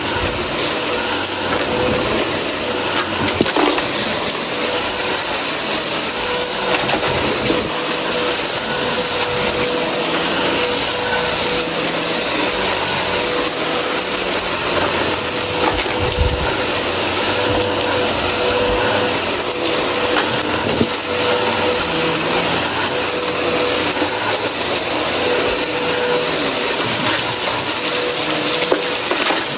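Vacuum cleaner running steadily with a constant hum, sucking up a crunchy dry mess with scattered clicks of debris going through.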